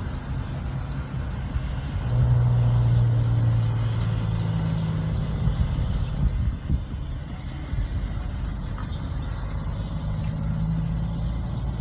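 Heavy truck driving past on a road, its low engine drone loudest from about two seconds in, over steady traffic noise.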